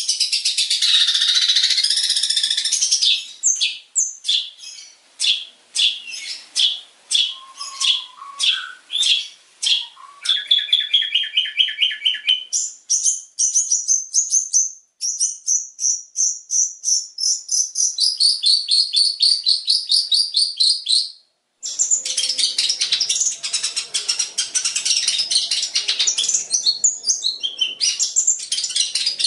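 Long-tailed shrike (cendet) singing rapid volleys of sharp, high chirps, many notes a second, switching to a new phrase every few seconds. The song is the kind sold as a champion tutor song, packed with mimicked calls such as those of the white-shouldered triller (kapasan) and the sparrow. A brief break comes about 21 seconds in.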